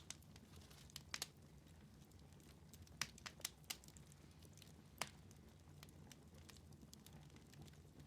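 Wood fire crackling in a fireplace: faint with scattered sharp pops, a pair about a second in, a quick cluster around three seconds and a single pop near five seconds, over a low steady rumble.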